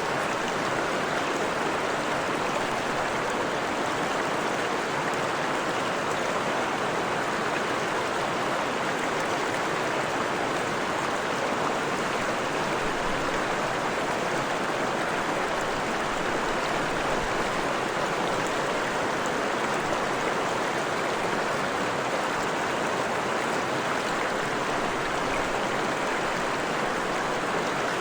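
Forest stream of fresh water flowing over rocks: a steady, even rush of water.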